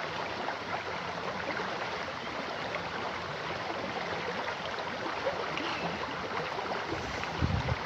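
Mountain river rushing over stones: a steady hiss of flowing water. In the last second, low buffeting of wind on the microphone.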